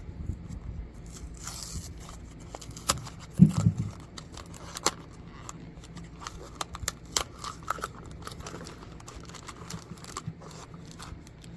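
A cardboard blind box and its plastic bag being torn open and handled, with crackling, crinkling and tearing, and a louder knock about three and a half seconds in.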